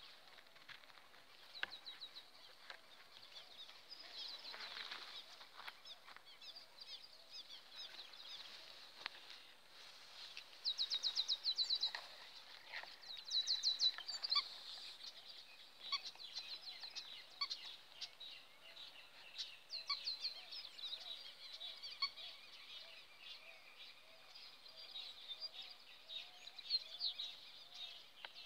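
Wild birds calling: repeated fast trills of high, sharp notes, loudest in two bursts about ten seconds in and a few seconds later. A fainter, lower call repeats through the second half.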